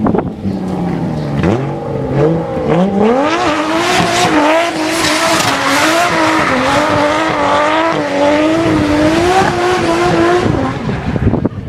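Drift car accelerating, its engine note climbing in two rising sweeps through gear changes, then held at high revs with a wavering pitch while the tyres squeal through a long slide of about six seconds; the engine and squeal drop away shortly before the end.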